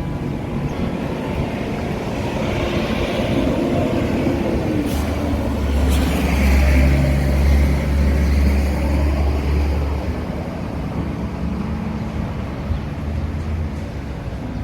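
A motor vehicle's engine and road noise rumbling, growing louder toward the middle and then easing off.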